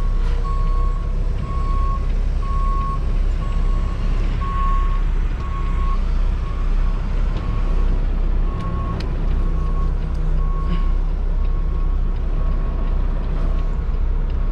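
A semi truck's backup alarm beeping at one steady pitch in an even repeating rhythm while the truck reverses, over the low rumble of its diesel engine.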